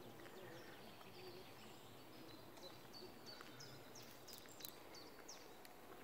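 Faint birdsong over a quiet hiss: several short, high chirps and whistled notes from small birds, clustering from about halfway in.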